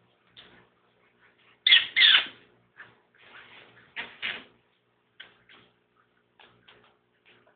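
Budgerigar chirping in a string of short calls, the loudest two close together about two seconds in and another pair about four seconds in.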